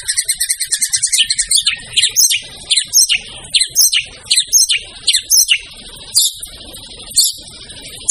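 White-rumped shama (murai batu) singing vigorously: a fast trill of high repeated notes for the first second or so, then loud, sharp notes falling in pitch, two or three a second, with a few longer notes near the end.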